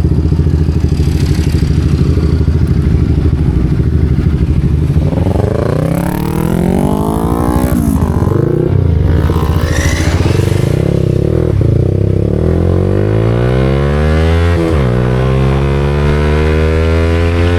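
Yamaha R15 V4M's single-cylinder engine through a Leo Vince aftermarket exhaust, running steadily at low revs, then from about five seconds in accelerating hard, its note rising and dropping back at two upshifts.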